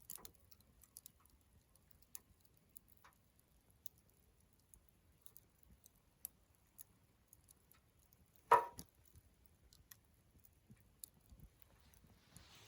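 Wood campfire crackling quietly with sparse small snaps, and one loud sharp pop about eight and a half seconds in.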